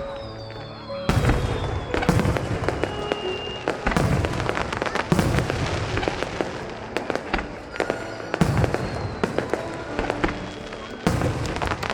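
Fireworks shells bursting in a rapid series of booms, every one to three seconds, with dense crackling between the bursts and music playing underneath.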